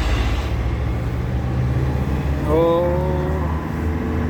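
GAZelle van's Cummins diesel engine running steadily while driving loaded with about four tonnes, heard from inside the cab. About halfway through, a brief pitched sound rises over the drone for about a second.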